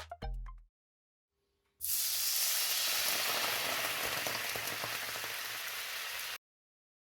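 A steady, even hiss of noise that starts about two seconds in, runs for about four and a half seconds and cuts off suddenly.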